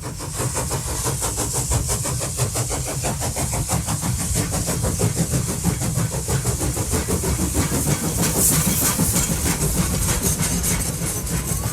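A railway locomotive working hard, with a fast, even beat over a low rumble and a steady high hiss.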